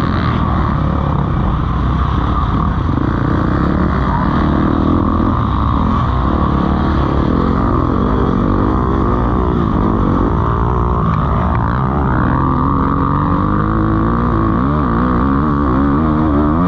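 Several motocross bikes racing on the track, their engines revving up and down through the gears, with the pitches rising and falling and overlapping over a constant low rumble.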